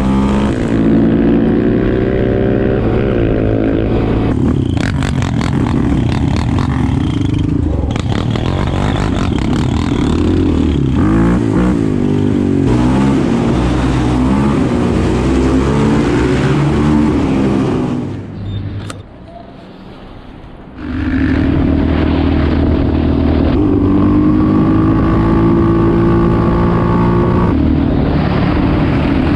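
Quad bike engines running and revving, their pitch rising and falling as they ride. The engine sound drops away briefly about two-thirds of the way through, then comes back steady.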